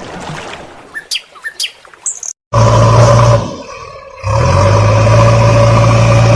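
A few short bird chirps, then a loud, steady vehicle horn sounding twice: a short blast, then a long held one.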